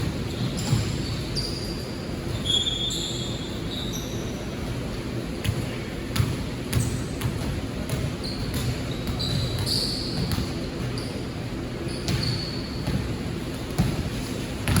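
Basketball play on an indoor court: the ball thudding as it is dribbled, and sneakers squeaking in short high chirps scattered through, over the general noise of the gym.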